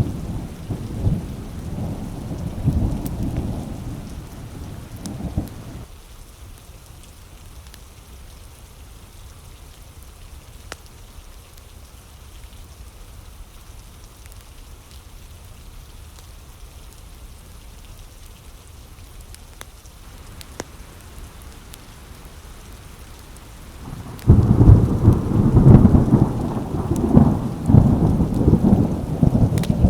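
Steady rain falling during a thunderstorm. A deep roll of thunder dies away over the first few seconds, and another loud rumble of thunder breaks in near the end.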